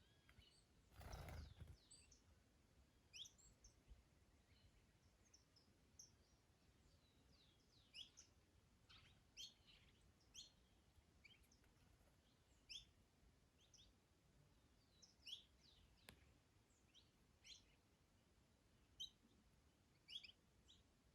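Small songbirds chirping faintly, with short high chirps scattered every second or so. About a second in there is a brief rush of noise.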